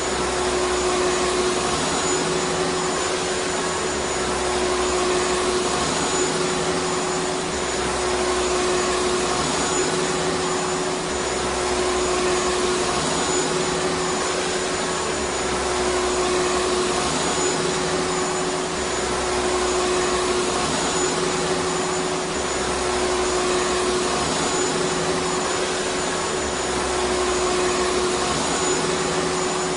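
Vacuum cleaner running steadily: a continuous motor whir and airflow rush with a constant hum-like tone.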